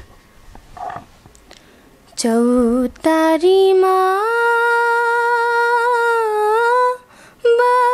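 Solo voice singing a slow Nepali song unaccompanied, starting after about two seconds of quiet. It holds long, drawn-out notes with a slight wavering, breaks briefly near the end, then carries on.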